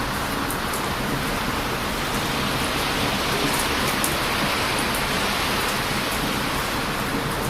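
Heavy surf and strong wind making a steady rushing noise, with the faint crackle and pops of a wood bonfire ticking through it.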